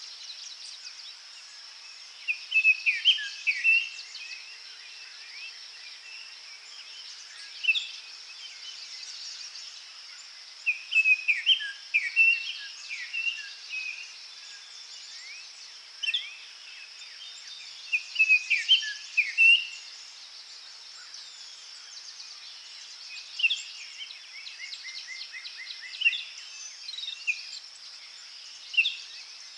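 Forest birds singing in short phrases of whistles and trills every few seconds. A steady high-pitched hum runs beneath them.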